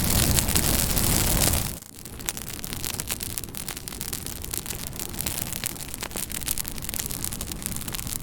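Campfire crackling, with frequent sharp pops and snaps of burning wood. For the first second and a half a louder steady rushing hiss sits over it, then cuts off suddenly, leaving the quieter crackle.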